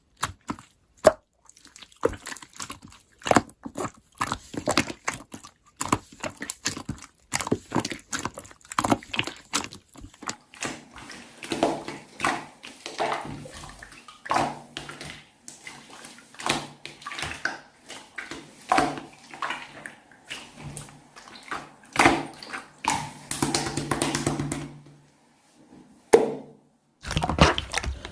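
Slime being squeezed and poked by hand, giving rapid irregular wet clicks, pops and crackles. From about ten seconds in a low steady hum runs underneath, and the sound breaks off briefly near the end.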